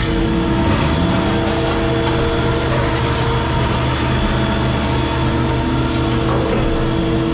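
Heavy machinery running steadily: a constant hum with several steady tones that does not change.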